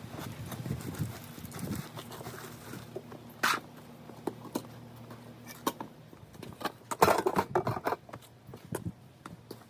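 Knocks, creaks and rustling as a person climbs into the back of a Range Rover Classic and settles onto a mattress laid on a homemade bed platform. The handling is loudest and busiest about seven seconds in.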